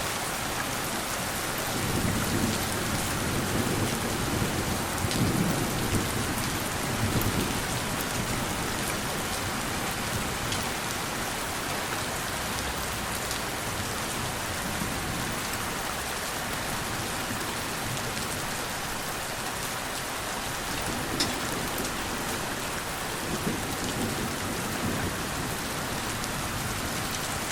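Steady rain falling, with low thunder rumbling twice: a longer roll starting about two seconds in, and a shorter one near the end.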